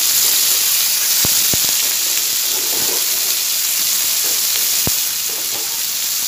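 Freshly added vegetable stalks sizzling in hot oil in a steel wok, a steady hiss, as they are turned with a metal spatula. A few sharp clicks come about a second in and again about five seconds in.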